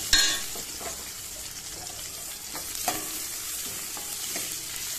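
Orange peel, curry leaves and chillies sizzling in hot sesame oil in a steel kadai while a steel ladle stirs them, scraping the pan. A sharp clink of the ladle on the pan just after the start, then a few softer scrapes and knocks.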